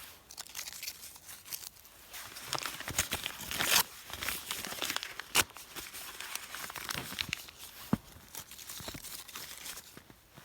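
Paper being crumpled and torn by hand, an irregular crackling run with a few sharp louder snaps.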